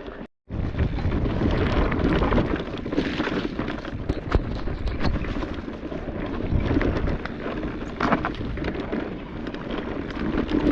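Electric mountain bike rattling and clattering over a rough, rocky trail, with many small knocks from the tyres and frame and steady wind noise on the microphone. The sound cuts in after a brief silence near the start.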